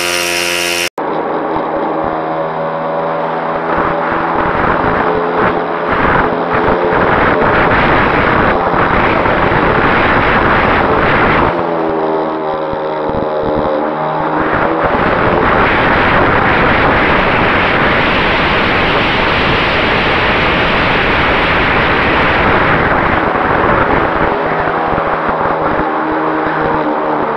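Radio-controlled model airplane engine running and rising and falling in pitch as the plane flies past, under heavy wind noise on the microphone. There is an abrupt cut about a second in.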